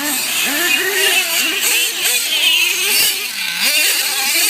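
Several racing monster truck engines revving, their pitch rising and falling over and over as they race around the track.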